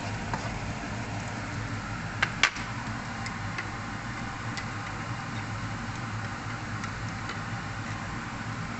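Minced onion and garlic sizzling in hot oil in a nonstick wok, with scattered small pops of spitting oil. Two sharp knocks come about two seconds in.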